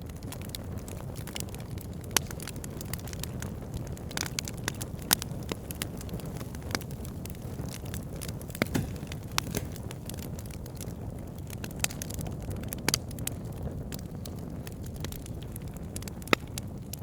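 Wood fire burning: a steady low rush of flames with crackling logs, sharp pops coming irregularly, a handful of them much louder than the rest.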